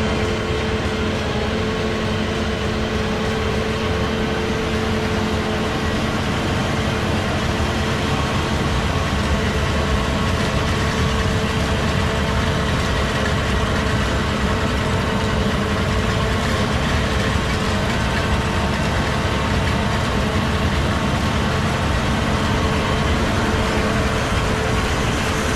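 An engine running steadily at constant speed, with a steady hum.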